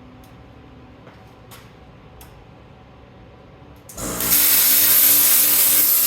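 Plasma cutter (Lincoln Tomahawk 375 on a CNC table) firing its arc about four seconds in: a sudden loud, steady hiss that starts the cut. Before it only a low hum with a few faint clicks.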